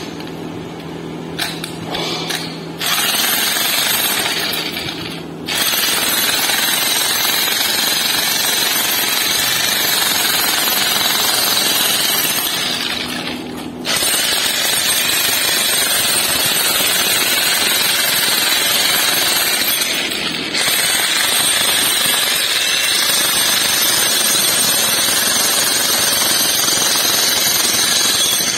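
Loud, rapid mechanical hammering from a power tool, running in long stretches of several seconds and breaking off briefly a few times: after a softer start it picks up about three seconds in, and pauses about five, fourteen and twenty seconds in.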